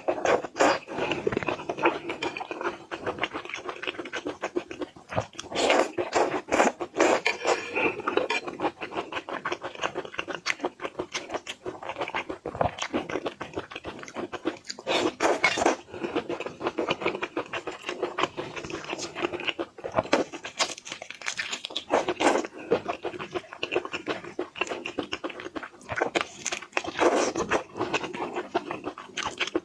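Close-up eating sounds of boiled seafood: a steady run of crunching, wet chewing and scraping of shells, in quick uneven clicks and crackles.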